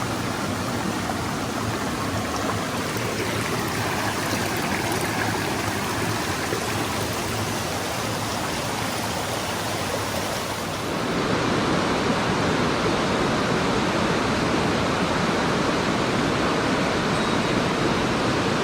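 Mountain stream water running over rocks, a steady rushing noise. It turns louder and fuller about eleven seconds in.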